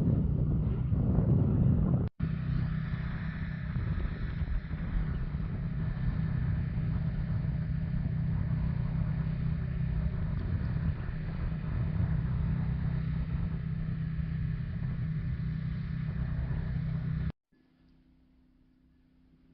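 A steady, low engine drone with a low rumble. It breaks off briefly about 2 s in, resumes, then cuts off suddenly about 17 s in.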